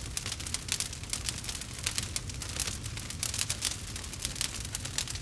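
Wood fire crackling in a fireplace: rapid, irregular snaps and pops over a steady low rumble.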